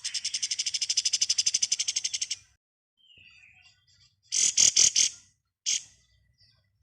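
Kapas tembak songbird giving its rapid machine-gun rattle ('ngebren'): a fast, even, high trill of about ten notes a second lasting some two seconds. Two seconds later it gives a burst of four loud, sharp notes, then one more.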